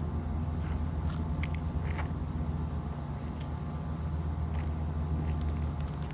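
Steady low mechanical hum, like a motor or engine running, with a few light clicks and taps during the first two seconds.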